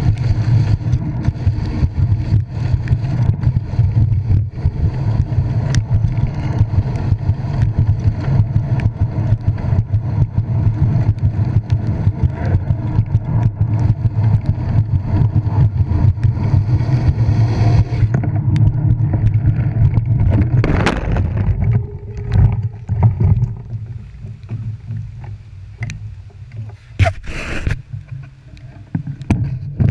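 Wind buffeting a cyclist's GoPro microphone while riding in the rain, a steady fluttering rumble. It drops away about two-thirds of the way through, leaving quieter handling noise with a couple of sharp knocks.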